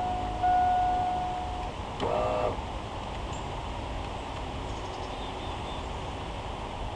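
GM full-size pickup's warning chime sounding with the key turned on and the driver's door open: a steady tone held for about a second. Around two seconds in comes a click and a short burst of sound, then only a steady low background.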